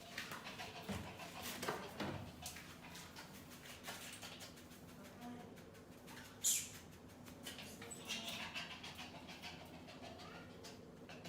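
A dog's faint sounds amid scattered knocks and scuffles, with one short, loud burst of noise about six and a half seconds in.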